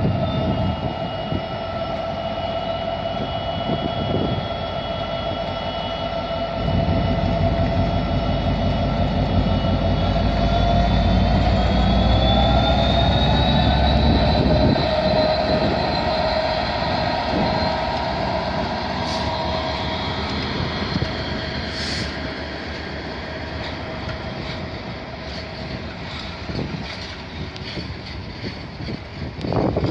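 DB Class 66 diesel-electric freight locomotive, with its EMD two-stroke V12 engine, passing slowly under power. It gives a steady mechanical whine that rises in pitch about twelve seconds in, over a heavy low rumble. The rolling noise of empty freight wagons follows, with a couple of sharp clicks.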